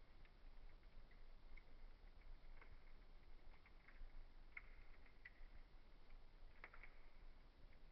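Faint wood fire crackling: scattered small pops over a soft hiss, with a brief cluster of louder pops near the end.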